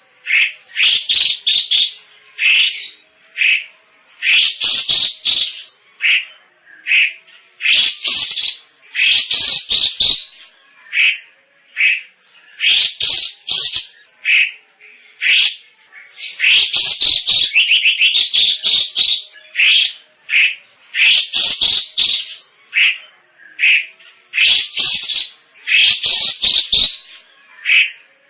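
Cucak cungkok songbird calling loudly and without pause: bursts of high, harsh chattering notes about a second long, separated by short gaps, some phrases a fast stutter of repeated notes.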